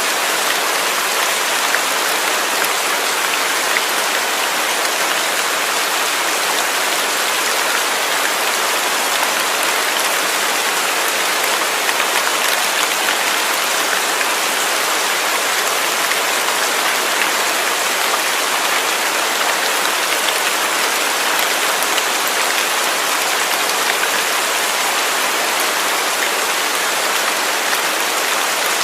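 Steady rain falling: an even, unbroken hiss of many drops at a constant level.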